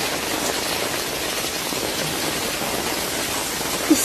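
Steady, even hiss of water, like heavy rain, with a brief rising pitched note right at the end.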